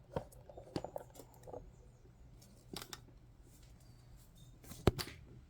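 Trading cards being handled: a few sharp clicks and taps, the loudest one near the end.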